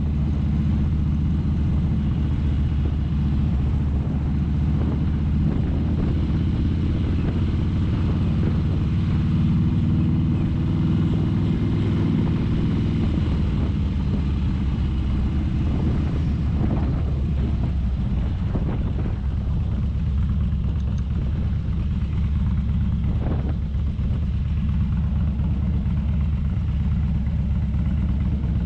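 Motorcycle engine running steadily at cruising speed, with a few brief thuds past the middle.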